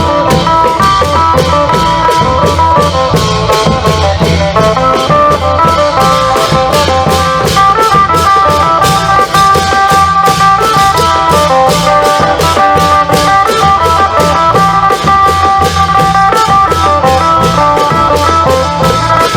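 Isan klong yao band music: a phin (Isan lute) plays a busy plucked melody over a steady long-drum beat and fast, evenly repeating percussion strokes.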